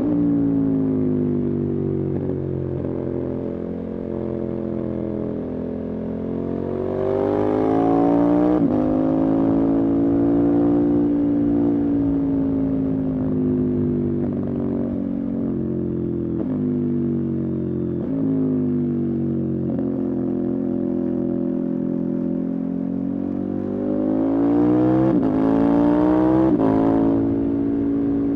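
Motorcycle engine running under way, its pitch sagging and rising with the throttle. Twice it revs up hard and then drops sharply at a gear change, about eight seconds in and again near the end.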